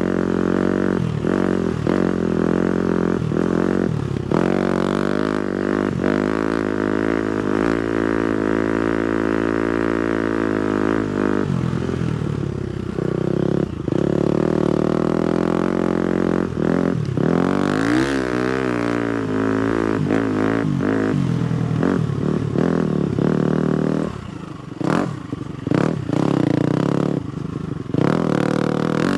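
250cc four-stroke motocross bike engine running under throttle while riding, its pitch rising and falling as the throttle is opened and rolled off. Near the end it drops away briefly a few times before picking up again.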